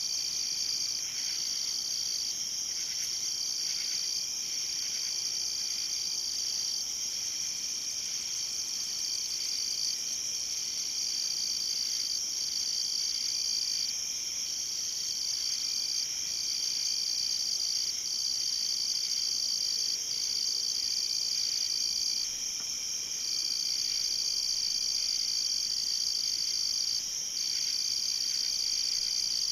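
Night insect chorus: a steady, high-pitched trilling, with a second insect's trill breaking off briefly every second or two.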